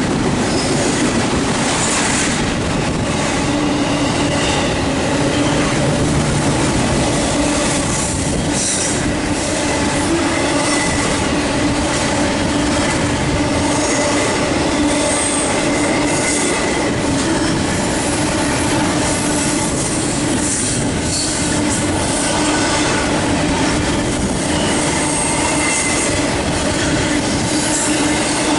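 Union Pacific double-stack intermodal freight train's container cars rolling past: a steady, loud rumble of steel wheels on rail, with intermittent high-pitched wheel squeal.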